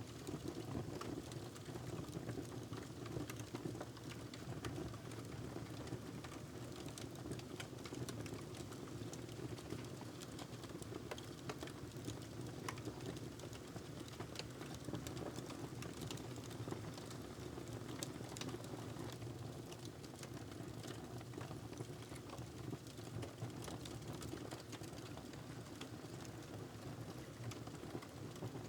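Wood fire crackling steadily, with many small sharp pops over a low, even rush of burning.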